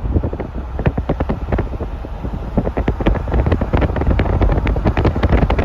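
Wind buffeting the microphone: a steady low rumble broken by many irregular crackles.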